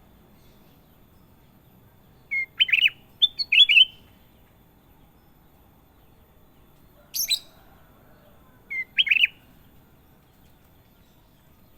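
Kutilang emas bulbul singing short bursts of sharp, chirpy whistled notes: two quick phrases close together about two and a half seconds in, a single sharp call around seven seconds, and another brief phrase near nine seconds, with pauses in between.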